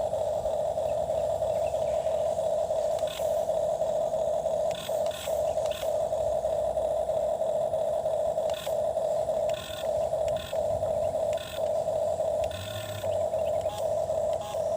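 Small electric motor of a toy excavator running with a steady whine, broken by short clicks and brief dips several times.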